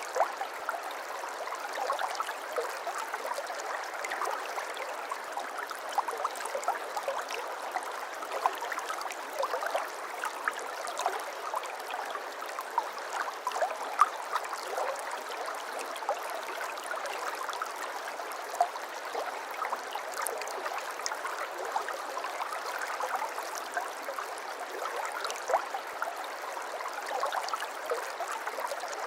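Water flowing and babbling steadily, as in a small stream, with a constant stream of small splashy ticks and gurgles and no deep rumble.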